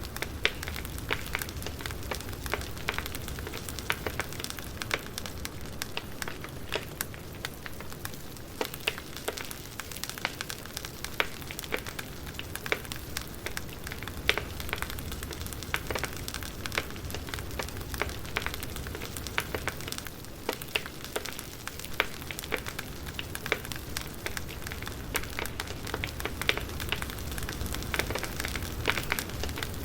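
Wood fire crackling: irregular pops and snaps of burning firewood over a low, steady rumble.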